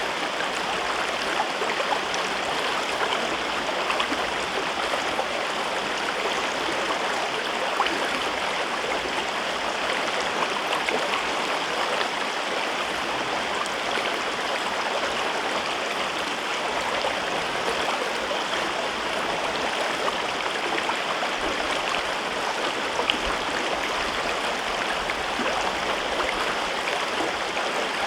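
A river in a rocky gorge running over stones: a steady rushing babble of water with many small splashes and gurgles.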